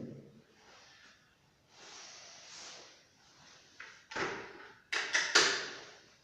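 A dull thud, a second or so of scraping rustle, then a quick run of sharp knocks and clacks, the loudest near the end: objects being handled and set down during installation work.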